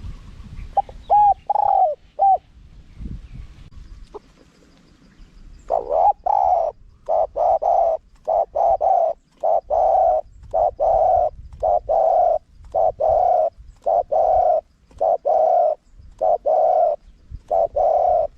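Spotted dove cooing: a few short coos about a second in, then from about six seconds a long run of repeated coos in quick twos and threes.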